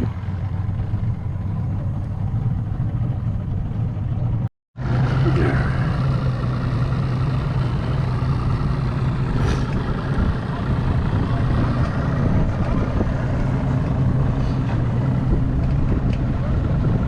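A vehicle engine running steadily while under way, with a low constant hum, broken by a sudden brief dropout about four and a half seconds in.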